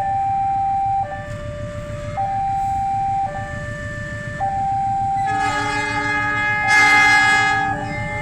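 Diesel locomotive's multi-note horn sounding for about two seconds, starting about five and a half seconds in and loudest near its end, as the train departs. Throughout, a two-tone siren alternates between a higher and a lower note about once a second, over a low rumble of the train moving.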